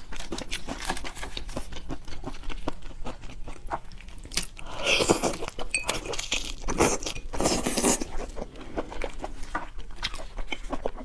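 Close-miked eating of seafood: steady wet chewing and small crunchy bites, with two louder, noisier bursts of biting and slurping about four and a half and seven and a half seconds in.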